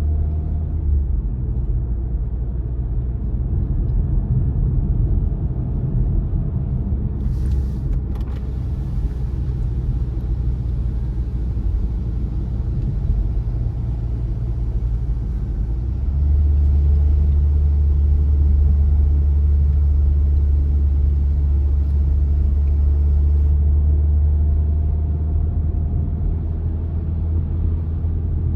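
Car driving along, a steady low rumble of engine and tyres on the road, growing louder and heavier a little past halfway through.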